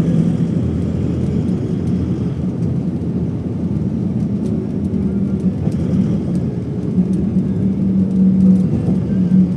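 Steady drone of a passenger airliner heard from inside the cabin, engines and airflow running evenly with a held low hum.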